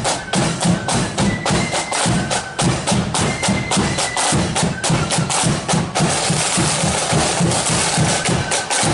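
Marching flute band playing: short high flute notes over rapid snare-drum beating and a steady bass-drum pulse.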